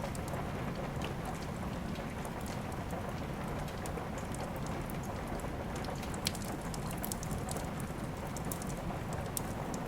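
Steady rain with a wood fire crackling: an even rush of rain under frequent sharp little pops and snaps, one louder pop about six seconds in.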